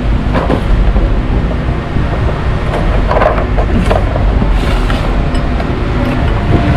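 Heavy truck running, a steady low engine and road rumble with a few light knocks and rattles.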